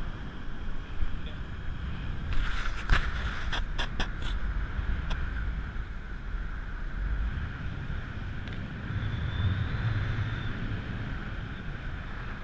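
Boat engine running steadily with a low rumble, with a cluster of sharp knocks or clicks between about two and four seconds in.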